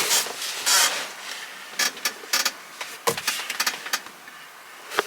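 Scattered short clicks, taps and rustling handling noise, loudest in the first second and quieter toward the end.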